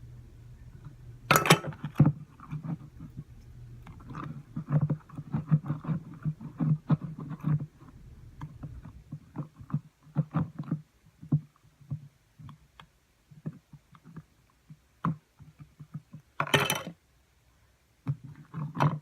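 Hands kneading and squishing sticky fluffy slime: irregular wet squelches and little pops, with two louder squelching bursts, about a second in and near the end.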